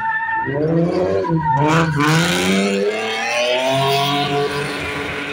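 Car engine revving hard in two rising sweeps, with tyres skidding in a burst of screech about two seconds in: a car drifting.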